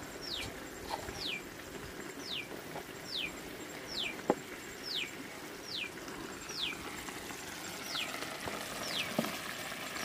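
A bird calling repeatedly: a series of short whistled notes, each falling steeply in pitch, coming about one a second. A single sharp click sounds about four seconds in.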